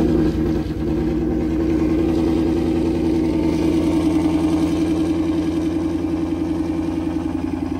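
Ford Mustang GT's 5.0 V8 idling steadily just after start-up, with no revving.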